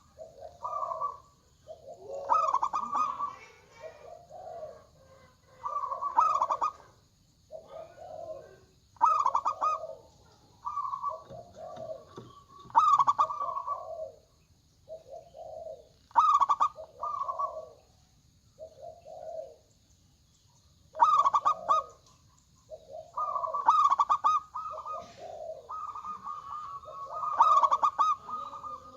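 Zebra doves (perkutut) cooing: short, bubbling, rhythmic coo phrases repeated every one to three seconds, with calls overlapping toward the end. A faint steady high hiss runs underneath.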